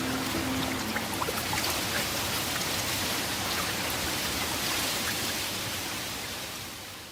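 Steady rush of running water with fine drips and splashes, fading out near the end. The last held music notes die away in the first second.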